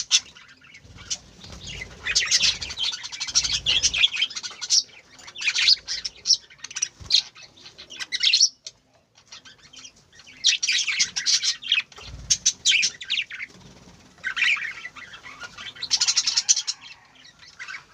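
A flock of small birds chirping busily in repeated bouts with short pauses, mixed with a few dull low thuds of fluttering.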